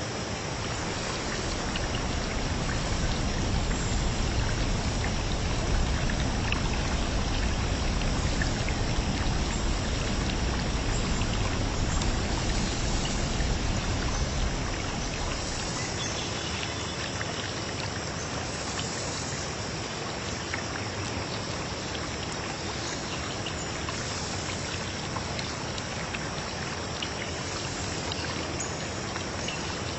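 Running water, a steady rushing flow, with a low rumble beneath it that drops away about halfway through.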